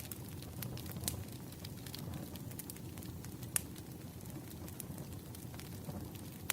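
Firewood burning, crackling with scattered sharp pops over a steady low hiss, one pop standing out about three and a half seconds in.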